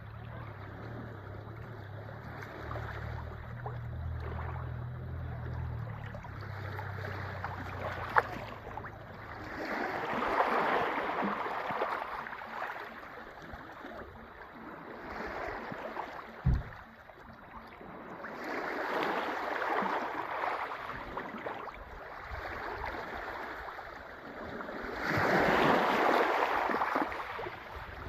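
Sea waves washing onto the shore, surging three times in slow swells several seconds apart. A low rumble of wind on the microphone fades out about a third of the way in, and a brief thump comes about halfway through.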